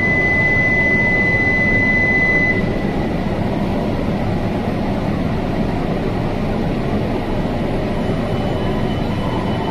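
Steady rumbling hum of an E2 series Shinkansen train standing at the platform before departure. A thin, steady high tone sounds over it for the first two and a half seconds and then stops.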